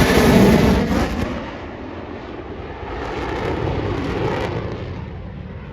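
F-22 Raptor's twin jet engines at high power during its airshow demonstration, loud at first, dropping away about a second and a half in, swelling again and then fading as the jet passes and moves off.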